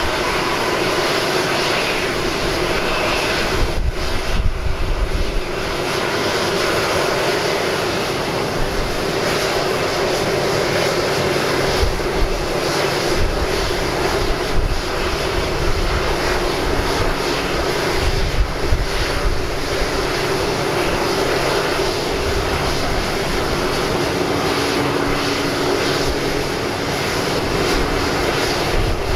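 Steady jet airliner noise from an Airbus A330-300 during pushback: a constant rush and hum, with a faint held tone that comes and goes in the second half.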